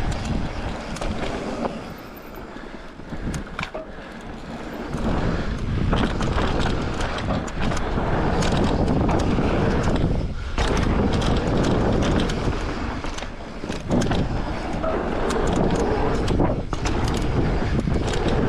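Electric mountain bike riding a dirt trail: steady tyre and wind rush with many small rattles and knocks from the bike over rough ground. It eases off for a few seconds early on, then comes back as loud as before.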